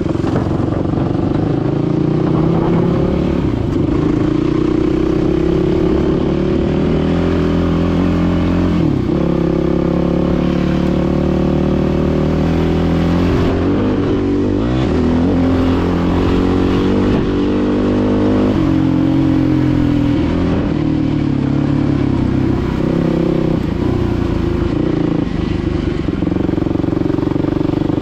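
Dirt bike engine running as it is ridden, its pitch rising and falling with the throttle, with the sharpest swings about nine seconds in and again between about 14 and 18 seconds.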